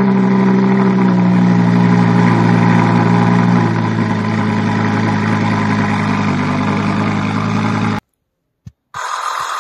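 Car engine sound settling from a brief rev into a steady idle, then cutting off abruptly about eight seconds in.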